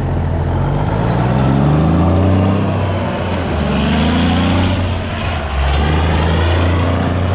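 Heavy diesel engine working under load, its pitch climbing and easing off a few times.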